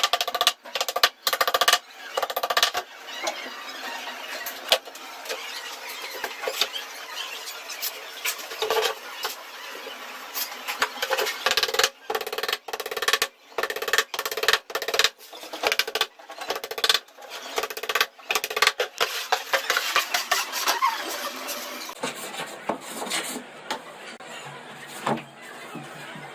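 Choppy bursts of woodworking tool noise with squealing, cut off abruptly again and again, as in a quickly edited sequence of cabinet-making work.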